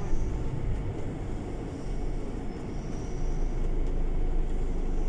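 Scania city bus running: a steady low engine drone with road noise.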